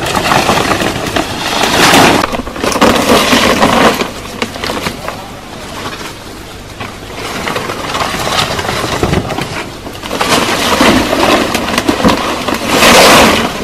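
Leafy branches rustling and cracking as they are handled and broken, in several loud surges of a second or two.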